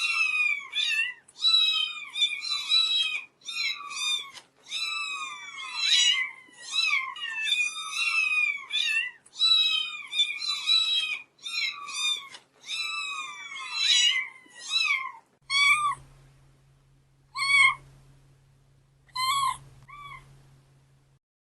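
Domestic cats meowing over and over: short, high-pitched, falling meows coming about two a second. About fifteen seconds in they thin out to a few meows a second or two apart, and a low steady hum runs under them.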